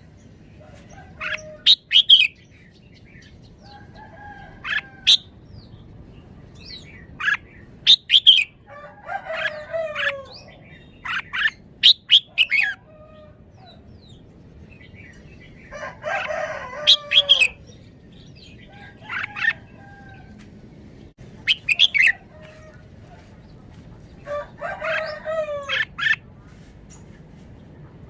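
Red-whiskered bulbul singing: short bursts of quick chirped and whistled notes, about ten phrases separated by pauses of one to a few seconds, some longer and richer than others.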